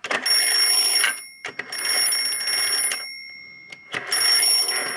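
Toy telephone's built-in bell ringing in three bursts of about a second each, fading between them. It rings as meant, but its speech mechanism is faulty and will not go on to talk.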